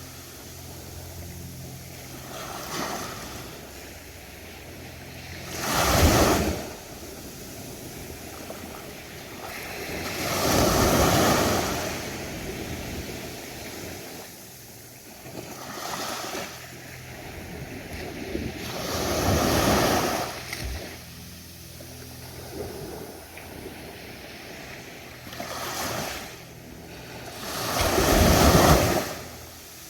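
Ocean surf breaking on a sandy beach, one wave every few seconds. Each wave swells into a rushing wash and then falls back to a softer steady hiss.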